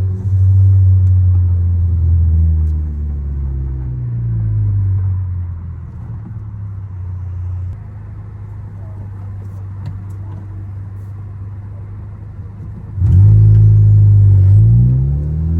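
Tuned Ford Focus ST's turbocharged four-cylinder engine driving. The engine note rises and then eases off into a quieter, steady cruise for several seconds. About thirteen seconds in, the throttle opens hard: the sound jumps in loudness and the engine pitch climbs quickly.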